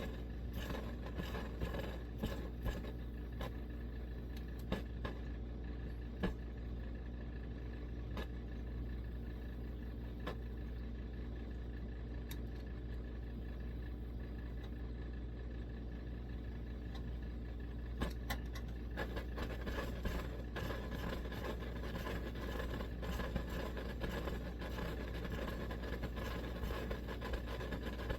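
Coleman 523 gasoline stove burner running with a steady roar, with scattered clicks and ticks; the roar gets fuller about two-thirds of the way in.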